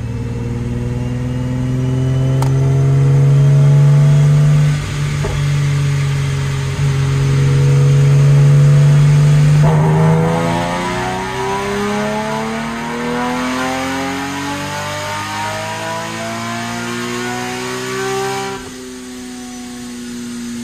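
Supercharged VQ37VHR V6 of a Nissan 370Z Nismo on a chassis dyno making a full power pass. It holds steady revs for about ten seconds, then the engine note climbs steadily at full throttle for about nine seconds before the throttle is lifted and the revs fall away.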